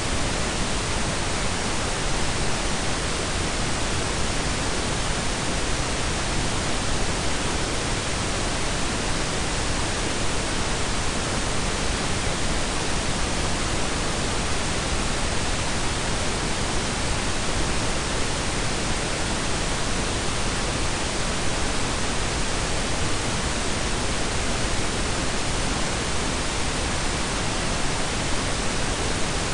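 Steady synthetic pink and brown noise blended together: an even, unchanging hiss with a deep rumble underneath.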